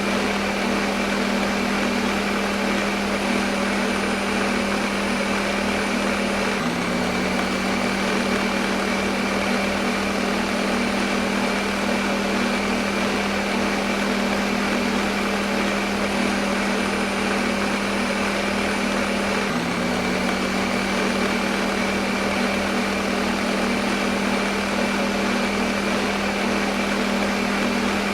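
Electric blender motor running steadily, a constant hum over dense whirring noise. Its pitch dips briefly and recovers about 7 seconds in and again about 20 seconds in.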